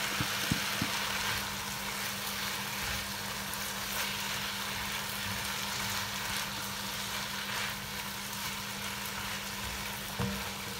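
Diced potato, carrot, sliced mushrooms and chicken sausage sizzling steadily in a pot while being stirred with a silicone spatula, with a few light knocks in the first second and another near the end. A steady low hum runs underneath.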